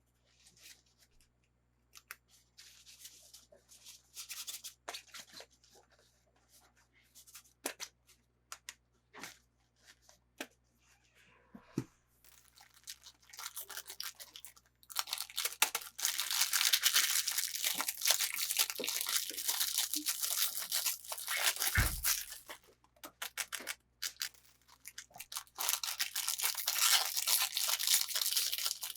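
Toy packaging being opened by hand. At first there are scattered light clicks and taps. About halfway in come long stretches of rustling and tearing, broken by a dull thump and a short pause before the rustling starts again.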